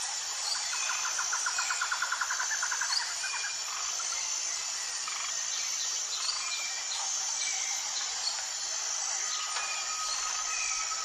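Jungle bird chorus over a steady, high insect drone: scattered chirps from several birds, a fast trill of repeated notes in the first three seconds, and a long steady whistled note starting near the end.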